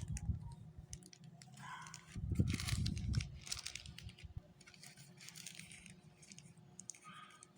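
Packaging being handled: irregular rustling and clicking, with a few dull bumps about two to three seconds in.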